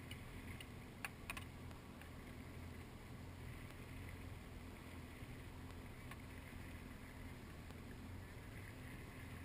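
Watercraft engine humming low and steady, with two short clicks a little over a second in.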